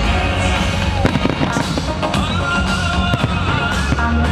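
A fireworks display going off, rapid bangs and crackles one after another, over loud pop music.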